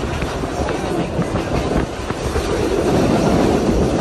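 Train running along the track: a steady rumble of wheels on the rails.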